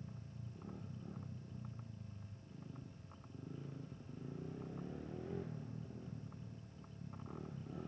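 Dirt bike engine running at low revs, faint, with a brief rise in pitch about four to five seconds in.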